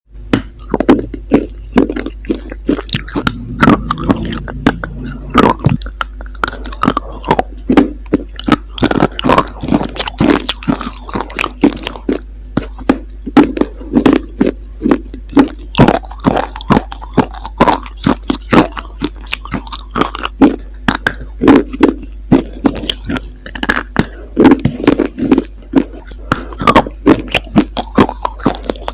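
Close-miked biting and chewing of a hard, brittle chalk-like material: a dense run of sharp crunches, several a second, over a steady low hum.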